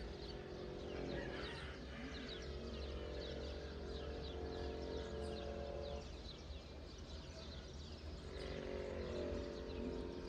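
Many small birds chirping rapidly together in a morning chorus, over a steady low hum that drops away for a couple of seconds past the middle.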